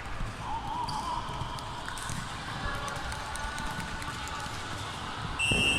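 Basketball game sounds: the ball bouncing on a hard court amid background voices, with a shrill steady whistle starting suddenly near the end, typical of a referee's whistle.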